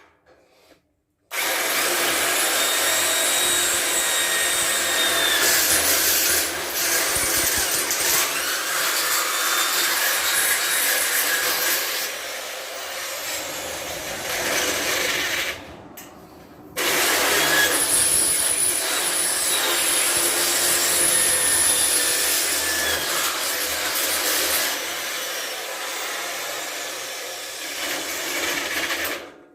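Power drill enlarging holes with a bigger drill bit. It runs for about 14 seconds, stops for a second or so about 15 seconds in, then drills again until near the end.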